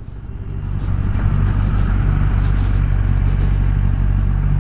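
Motorcycle engine running steadily with a low, even hum that swells in over the first second and then holds at a constant pitch.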